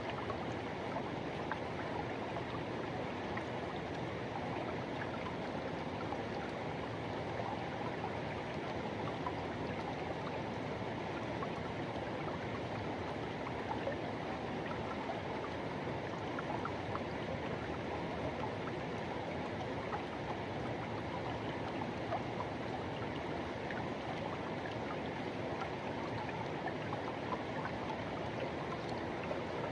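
Forest river water rushing steadily, an even, unbroken flowing noise.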